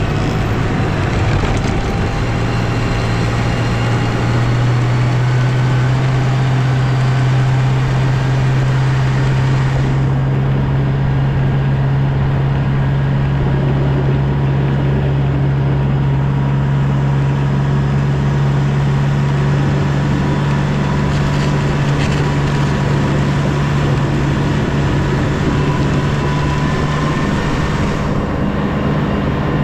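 Snow-plowing vehicle's engine running at a steady speed, a constant low drone with no letup.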